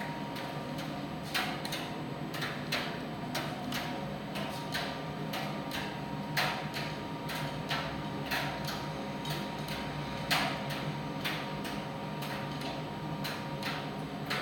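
Primus tumble dryer running: a steady machine hum with irregular clicks and knocks, one or two a second, a few of them louder.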